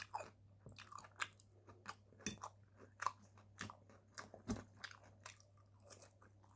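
Close-up chewing of air-fried homemade potato chips, with crunchy bites recurring about once or twice a second. Some of the chips are undercooked and hard.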